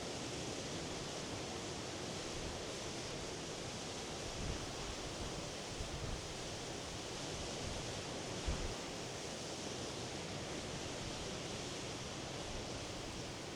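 Steady wash of sea surf on the shore, an even hiss of waves. A few brief low thumps stand out in the middle, the strongest about two-thirds of the way through.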